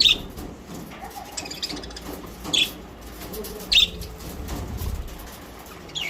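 Pet budgerigars chirping: short, high, sharp chirps about one every second.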